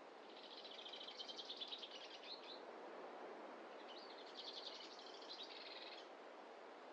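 A bird sings two songs, each a rapid run of high notes about two seconds long, over a faint steady rush of background noise.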